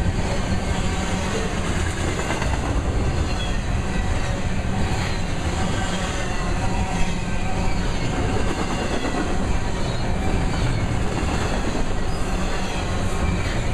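Double-stack container well cars of a freight train rolling past at speed: a steady low rumble of wheels on rail with continuous clatter, and one sharper knock about seven seconds in.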